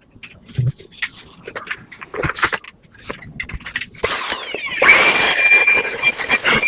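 Clicks and scrapes from parts being handled. Then, just after four seconds in, an air-conditioner cleaning machine's motor spins up into a loud steady rushing noise with a high whine.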